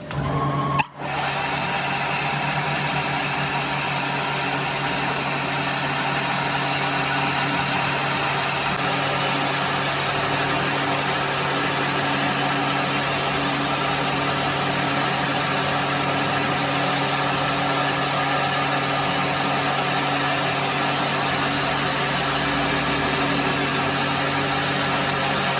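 Steady, even hum of a motor-driven machine running, after a sharp click about a second in.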